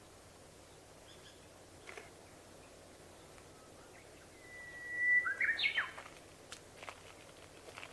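A songbird sings one phrase about four and a half seconds in: a held whistle, then a quick run of lower stepped notes.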